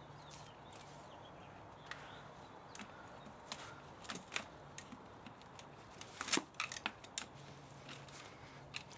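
Irregular snips, clicks and light metallic scrapes of hand tools working on a scrapped spa motor, the busiest and loudest run of them in the middle, over a faint steady low hum.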